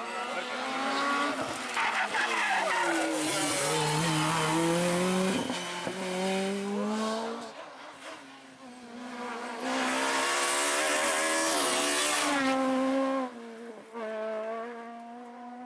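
Rally car engine at full throttle, its pitch climbing and dropping again and again through gear changes, with two loud passes and hissing tyre noise. The sound fades near the end.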